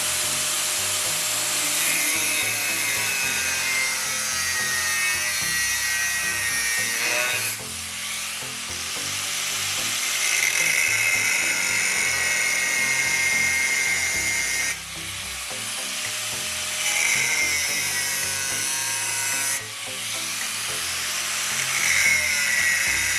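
Power tool cutting or grinding steel, a continuous high-pitched gritty whine that dips briefly three times as passes end and restart, over background music.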